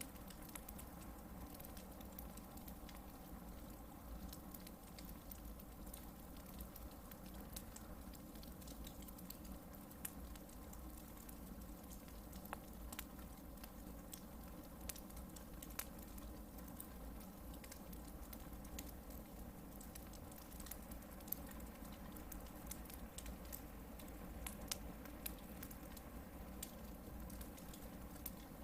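Hardwood campfire burning, with a faint steady hiss and many small crackles and pops scattered throughout, a few of them sharper.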